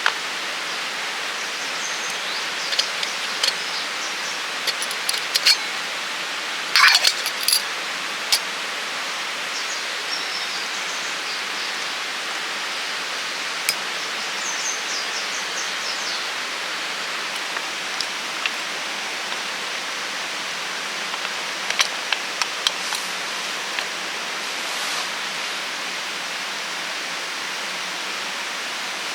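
A steady hiss of outdoor noise with scattered small clicks and crackles, the loudest cluster about seven seconds in.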